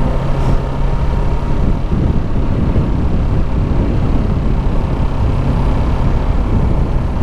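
Kawasaki Ninja 650 parallel-twin engine running steadily while the motorcycle is ridden, mixed with a constant rush of wind and road noise.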